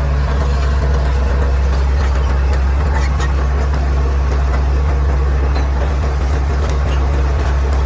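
Caterpillar D6R XL bulldozer's diesel engine running steadily at a low, even pitch, with a few faint clicks.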